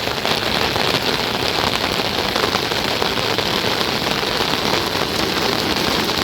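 Rain falling steadily, a dense, even hiss of drop hits.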